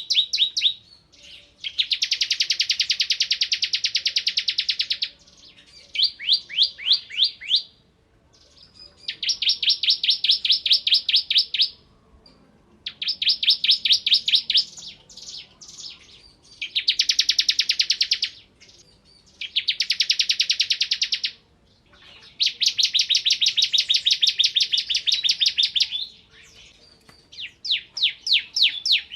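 Bar-winged prinia (ciblek kristal) singing in full voice. Its song is a series of rapid-fire trills of sharp, evenly repeated high notes, each burst lasting one to three seconds with short pauses between, plus a few slower runs of separate notes. This is the fast 'ngebren' machine-gun delivery that keepers prize.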